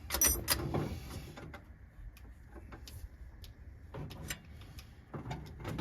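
Scattered light metallic clicks and knocks, a quick cluster in the first second and then single ones every half second or so, from the air-cooled VW engine and its fittings shifting as it is lowered out of the car.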